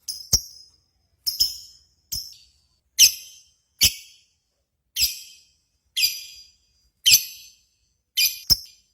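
Lovebird giving short, sharp, high-pitched chirps, about one a second, each cut off quickly, in the repeated calling that is used to provoke other lovebirds into singing.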